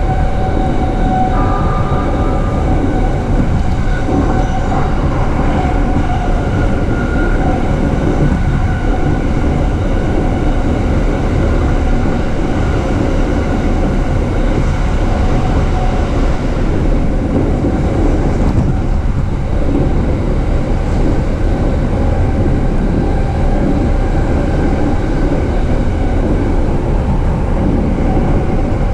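JR East E233 series electric commuter train running at speed, heard from inside the carriage: a steady rumble of wheels on rail with faint steady whining tones.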